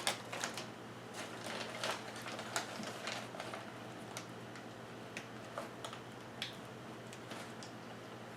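Scattered light clicks and taps of small hard equipment being handled and adjusted, irregular and at no steady rhythm, over a faint steady low hum.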